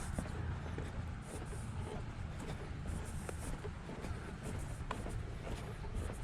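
A small engine running steadily as a low hum in the background, with scattered light ticks over it.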